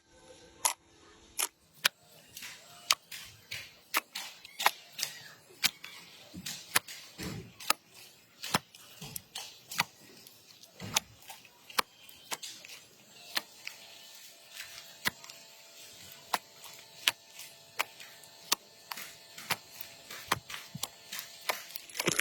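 Slime being played with by hand, making sharp, irregular clicks and pops, a few each second.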